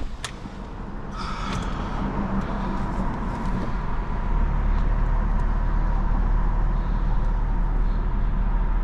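Car engine running steadily, a low hum that builds over the first few seconds and then holds even.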